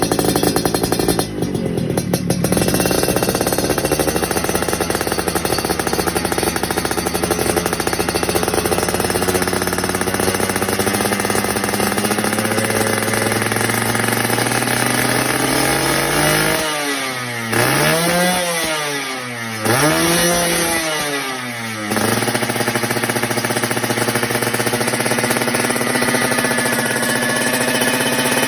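Suzuki Satria 120 single-cylinder two-stroke motorcycle engine idling, revved up and back down twice a little past halfway, then settling back to idle.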